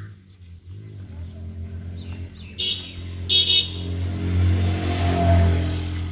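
A motor vehicle passing by, its engine hum and road noise building up to a peak about five seconds in. Two short bird chirps sound over it in the middle.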